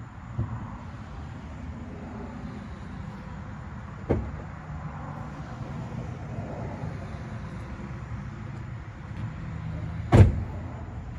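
Low steady rumble with three sharp knocks, about half a second, four seconds and ten seconds in; the last knock is the loudest.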